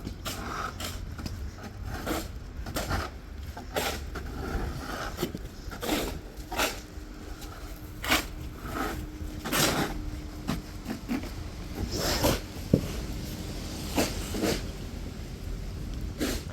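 Footsteps crunching through fresh snow, about one crisp step a second and irregular, over a low rumble of wind on the microphone.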